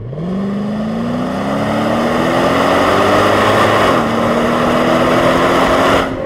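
2011 Infiniti FX50S's 5.0-litre V8 accelerating, its pitch rising steadily. About four seconds in the pitch drops at an upshift of the seven-speed automatic, then climbs again before cutting off suddenly near the end.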